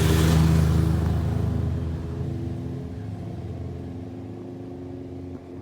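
A motor vehicle's engine, loudest just after the start and fading away over about two seconds as it passes, leaving a quieter steady engine hum.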